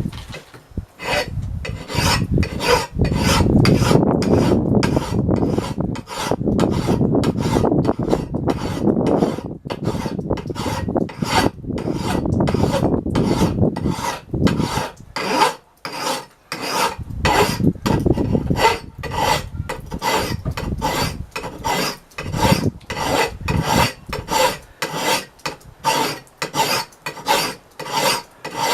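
Horseshoe rasp worked in steady strokes, about two a second, across the steel of a rusty axe head, rasping away rust and pitting. The strokes sound heavier and fuller through long stretches of the first half.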